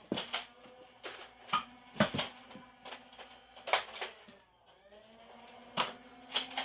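Sharp plastic clicks and knocks from toy foam-dart blasters being handled and primed. A small electric motor hums steadily at two points, once near the start and again from about five seconds in, like a flywheel blaster spinning up.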